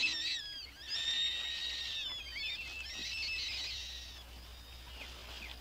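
Domestic rabbit screaming in distress: a run of high-pitched, wavering cries that die away toward the end.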